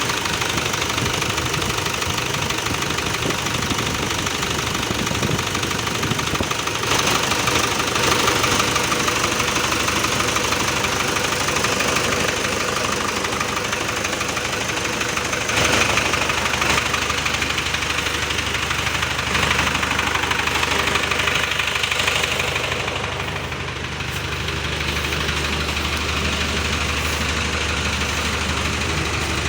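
Walking tractor engine running steadily, its note swelling louder a few times and dipping briefly near the end.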